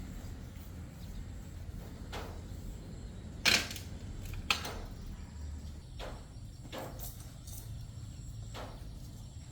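A series of irregular sharp knocks and clicks, about eight in all, over a low hum; the loudest comes about three and a half seconds in.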